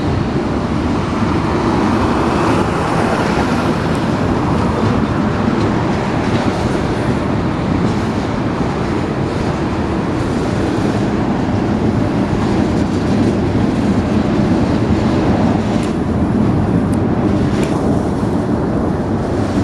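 Union Pacific freight train rolling past at close range: a steady, loud rumble of steel wheels on rail, with faint clicks over the track now and then.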